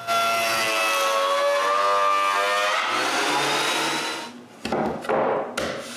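Woodworking planer running and cutting a glued-up board, a steady whine with a slightly shifting pitch for about four seconds that then dies away into quieter irregular noises.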